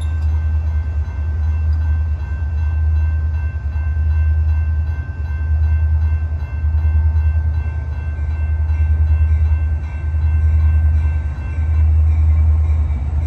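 Approaching diesel freight train: a low, heavy rumble that swells and fades about every second and a half to two seconds.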